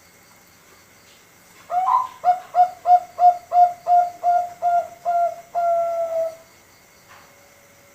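Young male zebra dove (Bangkok-strain perkutut) singing one full phrase: an opening note, about ten quick evenly spaced coos, and a longer held final note.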